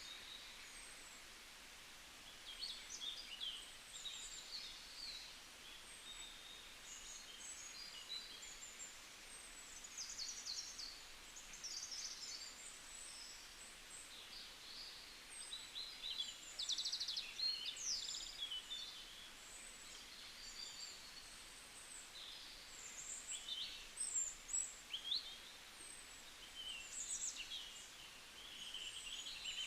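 Small birds chirping and twittering: many short, high calls and quick trills overlapping throughout, over a faint hiss.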